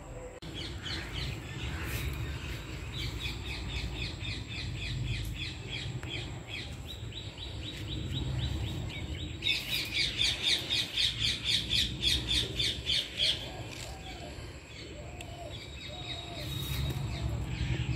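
A small bird chirping in long runs of quick, evenly repeated notes, about four a second, loudest for a few seconds after the middle, over a low steady rumble.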